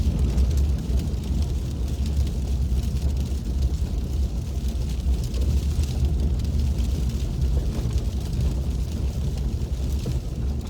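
Steady low rumble of a car driving, heard from inside the cabin: engine and tyres running on a snow- and slush-covered road.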